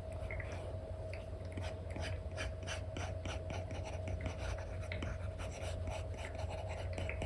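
Stylus nib scratching across a paper-textured screen film on a tablet in quick short strokes, two or three a second, over a steady low hum.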